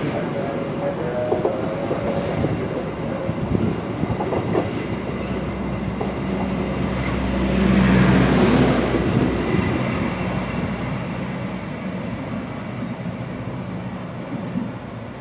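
Diesel-hauled passenger train rolling past with wheels clacking over the rail joints. About eight seconds in, the louvered power car at its tail passes and its generator engine hum swells to the loudest point. The sound then fades as the train pulls away.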